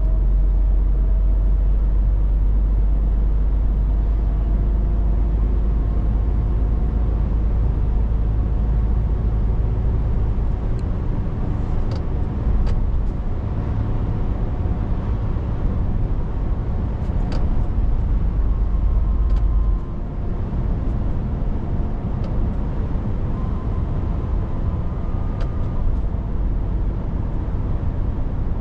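Scania 500S truck on the move: steady engine and road drone with a deep rumble. A few faint clicks come through in the middle, and the deepest rumble eases about two-thirds of the way in.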